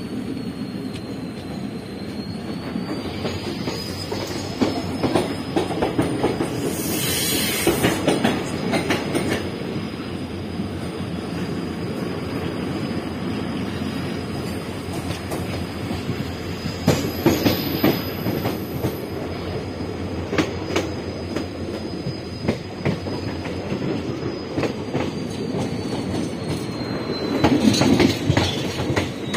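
Express train coach running over rail joints and points, with a steady rumble and repeated clacking knocks and louder bursts of clatter about 7, 17 and 28 seconds in. A thin steady high-pitched squeal from the train runs underneath and slides lower near the end.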